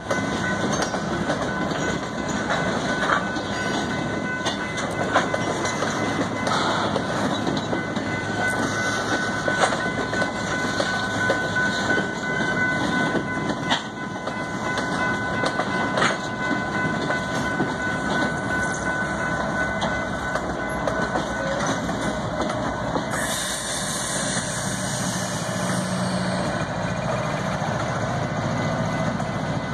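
Freight train of gondola cars rolling past, wheels clacking and rumbling on the rails, with a steady high ringing tone through the first part. Near the end the pushing pair of GE ES44AC diesel-electric locomotives passes, adding a low engine hum and a high hiss.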